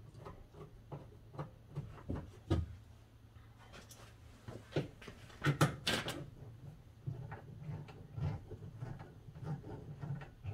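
Scattered light clicks, taps and knocks of bolts being started by hand and handled against the metal of a car door's latch mounting, with a louder knock about two and a half seconds in and a few more around the middle.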